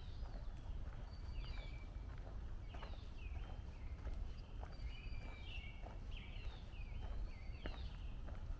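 Songbirds in woodland singing, with many short rising and falling chirps overlapping throughout, over the steady footsteps of a walker on a trail and a low rumble.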